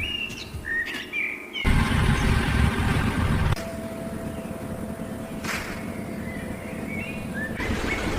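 Small birds chirping in short warbling phrases near the start and again near the end. Between them comes a loud, noisy rush lasting about two seconds, then a steadier, quieter background with a single click.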